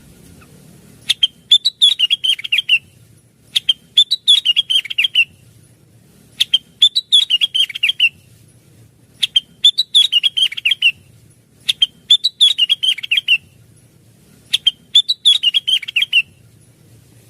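Cucak wilis leafbird singing the same phrase six times, a couple of seconds apart. Each phrase is a quick run of sharp, chipping notes that drop into a short warble.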